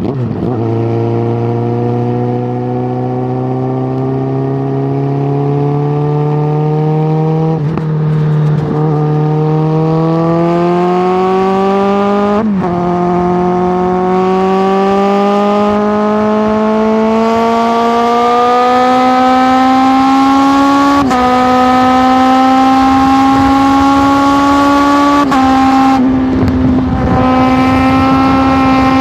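Suzuki GSX650F's inline-four engine through an aftermarket Tiger exhaust, accelerating up through the gears. The note climbs steadily in each gear and drops briefly at each of about four upshifts, running higher overall by the end.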